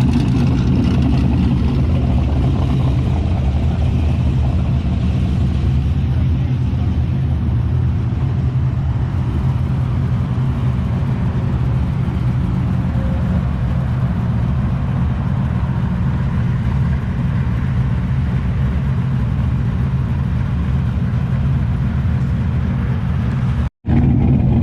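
Straight-piped LS V8 engines idling with a deep, steady burble. The sound drops out for a split second near the end.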